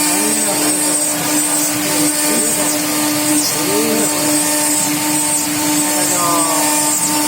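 A stone CNC router running steadily: a constant machine hum with a steady pitched tone, a high whine and an even hiss.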